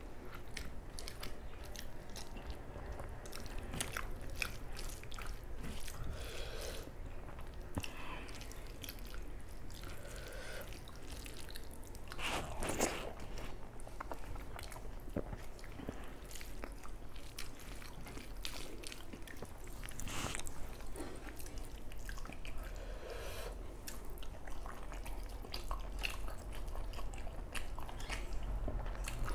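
Close-miked chewing and wet mouth clicks of a person eating rice and chicken curry, with the squish of fingers mixing rice on a banana leaf. Many short clicks throughout, a few louder ones near the middle.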